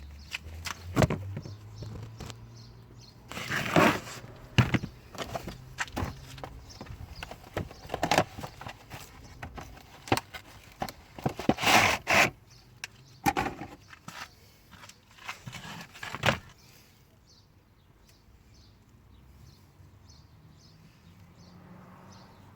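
Hand work on a van's interior trim and cabin filter housing: a string of irregular clicks, knocks and rustles of plastic parts, a few of them sharp and loud, stopping about sixteen seconds in.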